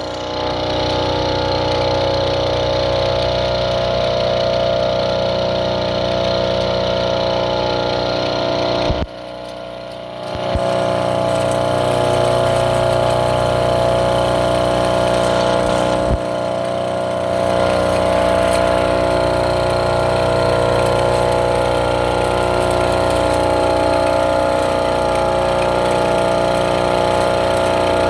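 A farm monorail's small engine, a used replacement unit, running steadily and evenly. Its level drops for a moment about nine seconds in, and there is a brief break near sixteen seconds.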